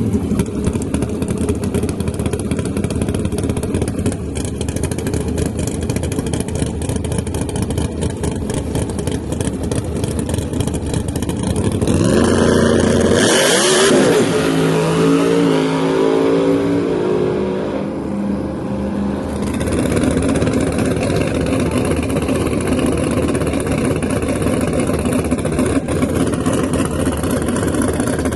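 Drag race car engines running loudly, with one car accelerating hard about halfway through; this is the loudest part, and its engine pitch shifts quickly.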